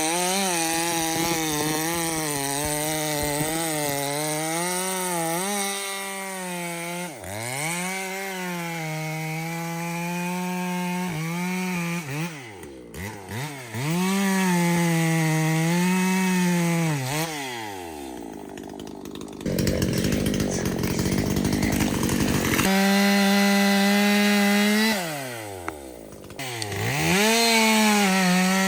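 Ported Echo two-stroke chainsaw cutting wood at full throttle, its pitch sagging and wavering under load. It drops off toward idle and revs back up several times between cuts.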